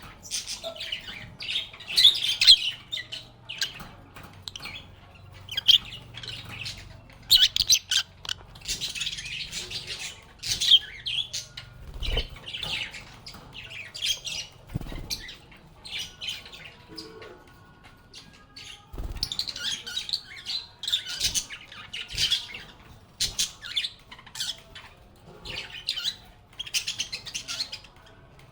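Lovebirds giving many short, shrill chirps and squawks in quick, irregular bursts, with a brief lull past the middle. Two low knocks, around the middle.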